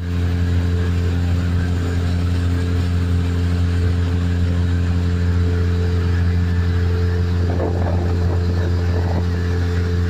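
Outboard motor running at a steady, constant speed, driving a boat.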